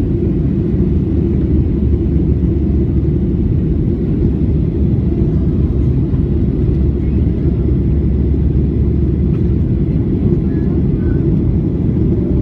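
Steady low rumble of a jet airliner's engines and airflow heard inside the passenger cabin, dipping slightly in the deepest part near the end.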